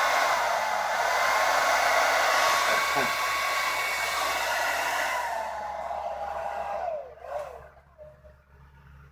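Revlon hair dryer running on high: a steady rush of blown air with a motor whine that wavers in pitch. About seven seconds in it stops, the whine falling away as the motor winds down.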